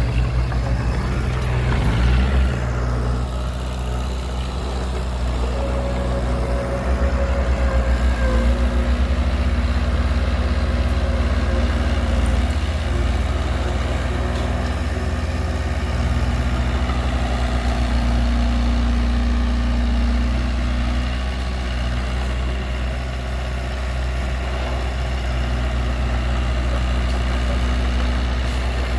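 Heavy diesel engine of earthmoving machinery running steadily, its low drone shifting a little in pitch as the machine works.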